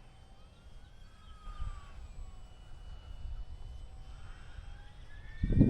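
Small electric motor and propeller of a UMX Air Tractor RC plane whining faintly in flight, its pitch gliding up and down. Near the end, a loud gust of wind buffets the microphone.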